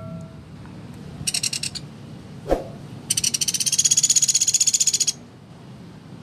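Pelatuk beras woodpecker giving rapid rattling trills of high, evenly spaced notes: a short one about a second in and a longer one of about two seconds near the middle. A single sharp knock falls between them.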